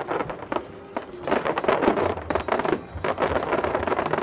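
Aerial fireworks going off in quick succession, many sharp bangs and crackles, over music playing, with a steady bass coming in about halfway through.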